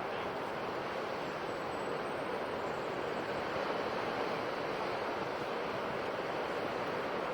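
Ocean surf washing on a shore: a steady, continuous rush with no single wave standing out.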